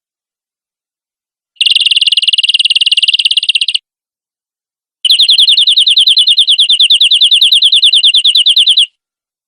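Domestic canary singing two fast, high trills of rapidly repeated notes, about a dozen a second: a two-second roll, a short pause, then a longer roll of nearly four seconds.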